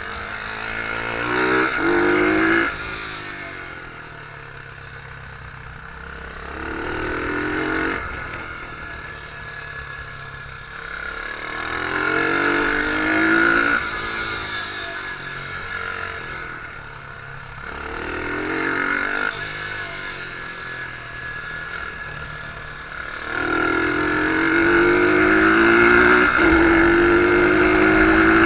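Beta r150 pit bike engine heard on board, revving up in repeated pulls that each rise in pitch and then fall away as the throttle closes, about five times. A long pull near the end holds high revs.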